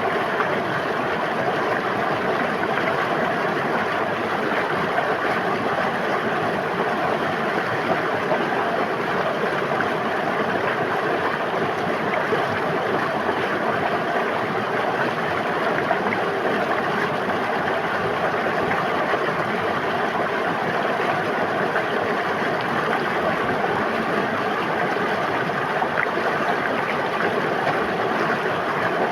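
A river or stream flowing and babbling over rocks in a steady, even rush of water.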